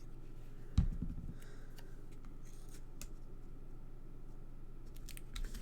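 Die-cut paper pieces being handled on a craft table: a thump just under a second in, then scattered light clicks and rustles of paper.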